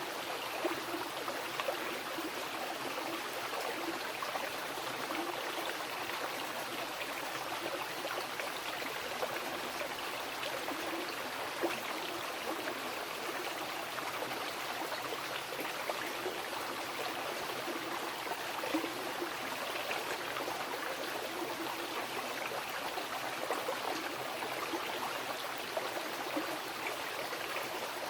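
Wild mountain river rushing over rocks, a steady even rush of water with small splashes and gurgles.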